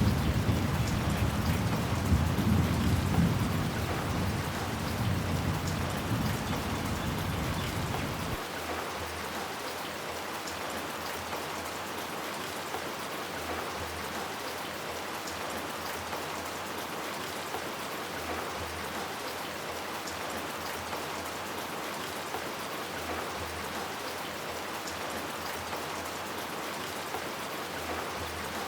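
Steady heavy rain falling on hard surfaces, with a low rumble of thunder that rolls away and dies out about eight seconds in, leaving only the even hiss of the rain.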